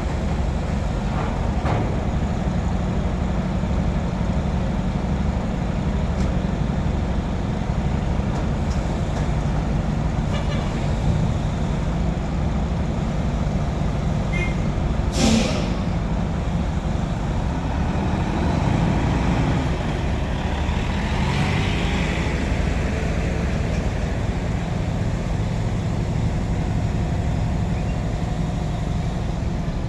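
Container truck's diesel engine running steadily at low speed, with a brief sharp hiss about halfway through.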